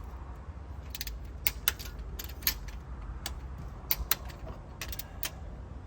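Torque wrench ratcheting and clicking as cylinder head bolts are pulled to their final torque, irregular sharp metal clicks over a low steady hum.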